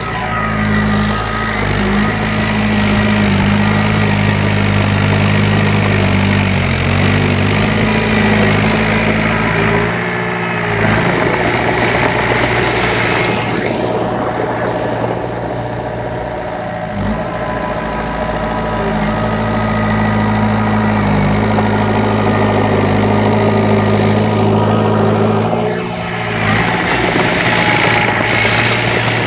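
Diesel engine of heavy earthmoving machinery (bulldozer or dump truck) running steadily, its pitch stepping up and down several times as the load changes.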